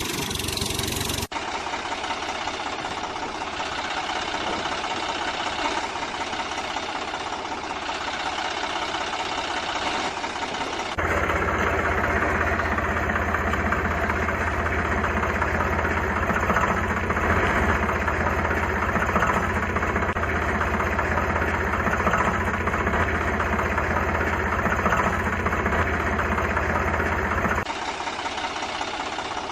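An engine running steadily, like an idling diesel tractor, with a knocking beat. About eleven seconds in it switches suddenly to a louder, fuller run, and drops back just as suddenly near the end.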